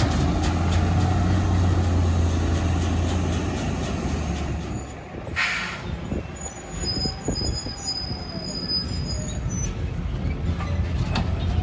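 Heavy garbage truck's diesel engine running with a low hum that fades, then a short hiss of air brakes about five seconds in, followed by a high brake squeal lasting a few seconds; engine sound builds again near the end.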